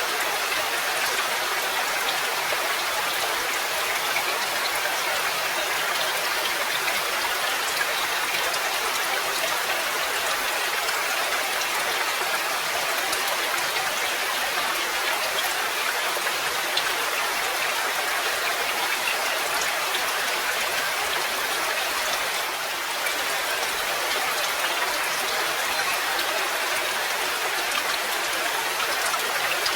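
Steady rain falling, an even, continuous patter of many drops.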